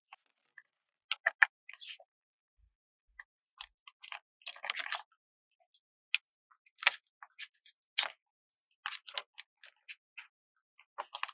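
Stickers and sticker paper handled close to the microphone: scattered light clicks, taps and short crackles, with a longer crackly stretch about four to five seconds in, typical of a sticker being peeled off its backing and pressed down.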